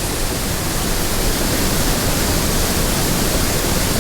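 A waterfall on a steep mountain creek pouring into a deep plunge pool: a loud, steady roar of falling water with no change.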